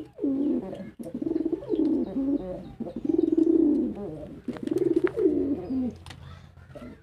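Domestic pigeons cooing: a run of about five low, throaty coos, each under a second long, with short gaps between them.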